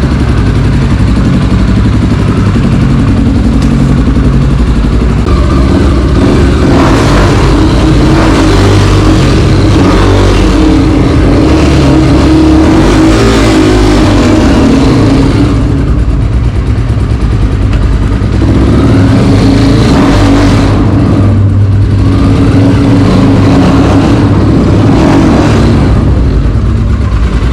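Single-cylinder dirt bike engine revving under load for a long stretch, its pitch climbing, dropping off briefly about halfway through, then climbing again.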